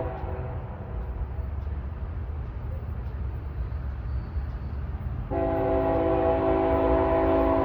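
Diesel freight locomotive's air horn: a blast cuts off just after the start, leaving a low rumble of the engine and train. A second long blast, a chord of several tones, starts about five seconds in and is still sounding at the end.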